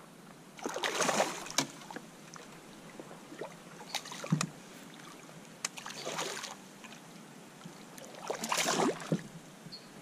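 Water splashing around a kayak in three bursts a few seconds apart, with small knocks between them, typical of paddle strokes.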